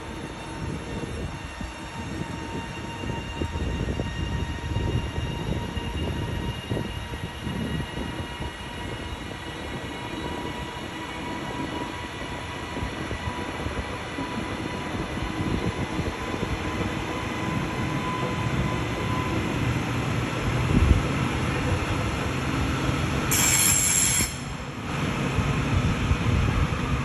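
CAF Class 397 Civity electric multiple unit running through the station: wheels rumbling on the track under a steady whine. A short, loud high-pitched burst comes about 23 seconds in.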